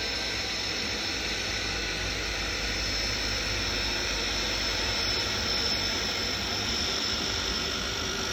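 Aircraft turbine engine, which the uploader takes for a turboprop, running steadily after start-up: an even rushing noise with a steady high-pitched whine over it.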